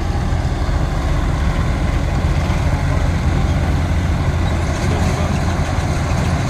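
Diesel engine of a Swaraj tractor harvester running steadily at an unchanging speed.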